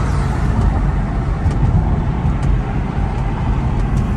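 2007 Infiniti G35 Coupe with Motordyne exhaust cruising, heard from inside the car: a steady low rumble of engine and exhaust mixed with road noise, with no revving.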